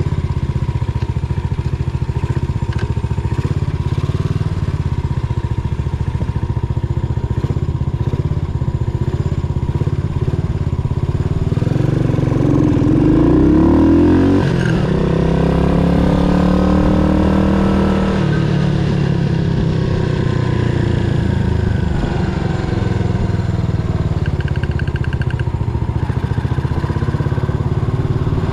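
Yamaha SR400's air-cooled single-cylinder four-stroke engine running under way on a ride, its note rising about twelve seconds in and falling away again around eighteen seconds.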